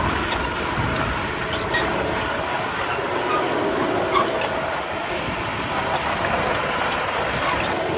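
Komatsu D31P crawler bulldozer running, its diesel engine going steadily under the clank and squeak of its steel tracks, with scattered short metallic clicks.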